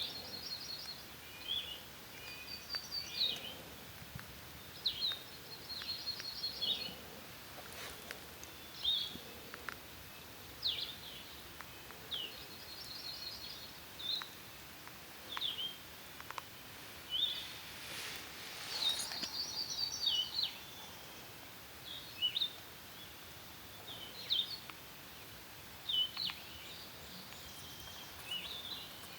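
Songbirds singing: short high chirps and quick trilled phrases repeating every second or two, over a steady background hiss.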